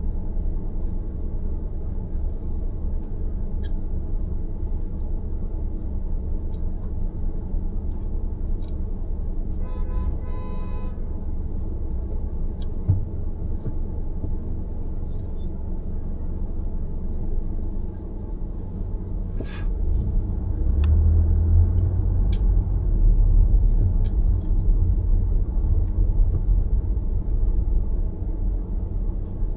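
Car driving along, with a steady low rumble of road noise. A car horn sounds briefly about ten seconds in, and the rumble grows louder in the last third.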